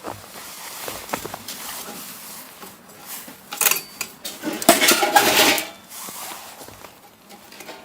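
Metal cookware and utensils clinking and clattering, with a loud bout of clatter around four to five and a half seconds in.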